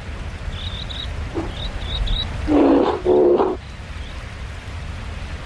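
Two loud, low, pitched animal calls one right after the other about two and a half seconds in, over small high bird chirps.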